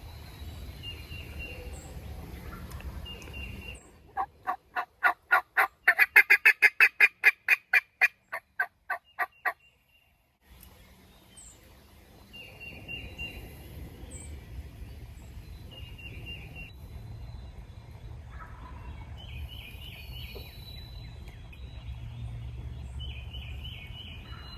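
Wild turkey calling: a loud run of about twenty yelping notes over five seconds or so, quickening in the middle and then trailing off. Faint songbird chirps sound before and after it.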